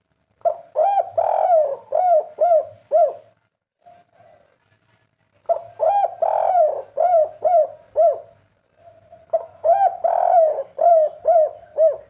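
Spotted dove of the 'kuk 3' song type cooing: three song phrases, each a run of about six rolling coos, a few seconds apart.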